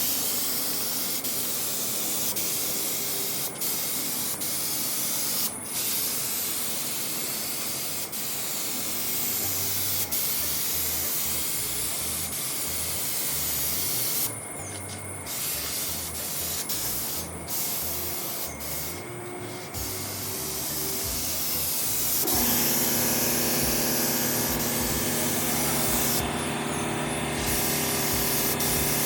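HVLP spray gun spraying paint at about 20 psi: a steady hiss of air and atomised paint, broken by a few brief pauses as the trigger is let off. About two-thirds of the way through, a steady low hum joins in under the hiss.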